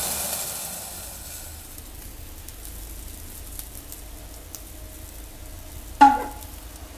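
Bacon and an egg sizzling on a hot steel griddle, steam-frying with a splash of water under a lid; the loud hiss fades over the first couple of seconds to a quiet steady sizzle. A short loud sound comes about six seconds in.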